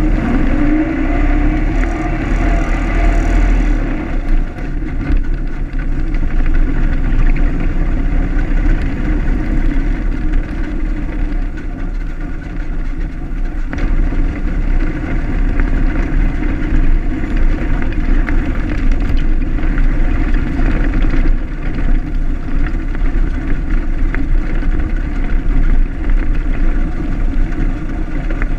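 1925 Ford Model T's four-cylinder side-valve engine running steadily as the car drives slowly across a grass field, heard from the bonnet with some low wind rumble on the microphone.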